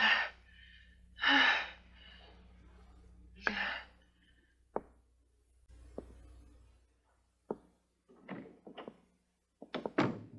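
A person gasping and sighing heavily three times, then several sharp knocks and short rustling bumps.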